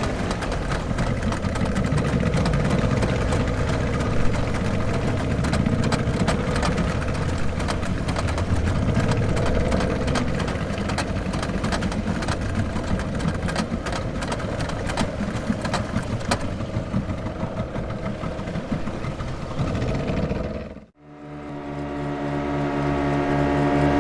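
Motorboat engine running steadily with a rough, rumbling drone. Near the end it cuts out to silence for a moment, then a smoother, steadier engine hum fades in and grows louder.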